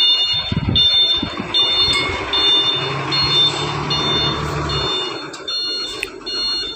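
Vehicle reversing alarm beeping steadily, about five high beeps every four seconds, over a low engine rumble that stops about five seconds in.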